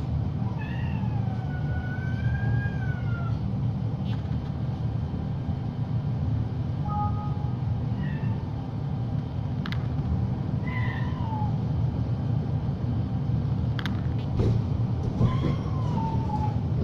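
Domestic cat meowing several times: one long, wavering meow near the start, then shorter meows around the middle and a falling one near the end. A steady low hum runs underneath, with a couple of faint clicks.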